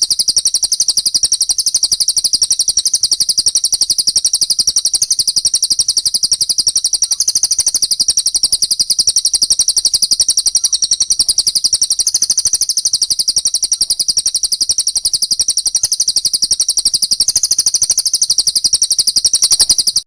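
Recorded songbird masteran track of fast, unbroken high-pitched chattering in rapid repeated notes, from the fighting tree sparrow ('gereja tarung') and cililin calls that make up the track. It cuts off abruptly at the end.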